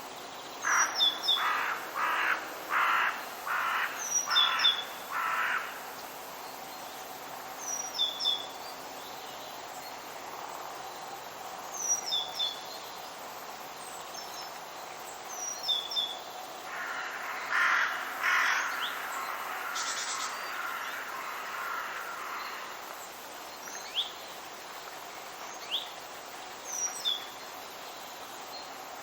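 A crow cawing in a quick run of about seven harsh calls near the start, and again in a shorter run about two-thirds of the way through. A small songbird repeats a short high chirp every few seconds over a steady background hiss.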